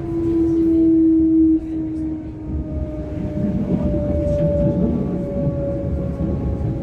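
Class 425 electric multiple unit running, its traction drive whining over the low rumble of the wheels on the track. A strong whine cuts off about a second and a half in, and the remaining tones slowly fall in pitch as the train slows.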